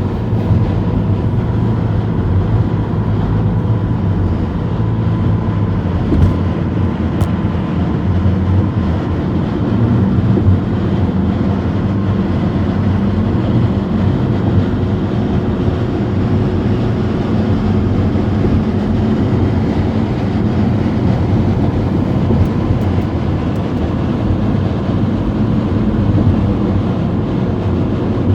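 Car driving at a steady speed: engine and road noise as a steady low rumble with a faint hum.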